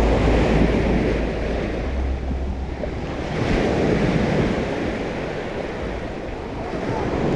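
Small sea waves washing onto the beach, with wind buffeting the microphone; the wash swells about three and a half seconds in. A low steady hum sits under it for the first couple of seconds.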